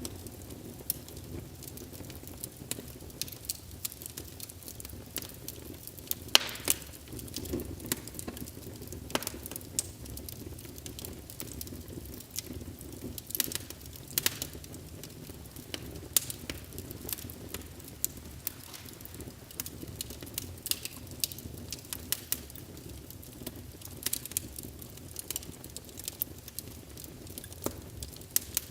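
Wood fire burning in a fireplace: a low steady rumble of flames with irregular crackles and sharp pops of burning logs, a few of them louder.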